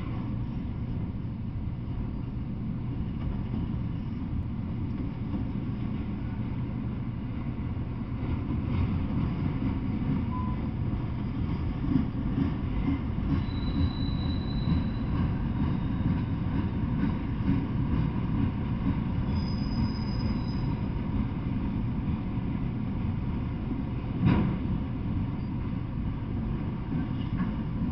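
Freight train of autorack cars rolling past at steady speed: continuous rumble of steel wheels on the rails, with a few brief high-pitched wheel squeals around the middle and one sharp knock a few seconds before the end.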